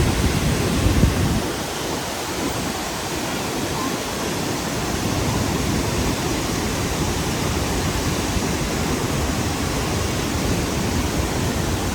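Steady rushing noise at all pitches, with heavier low rumbling buffeting in the first two seconds.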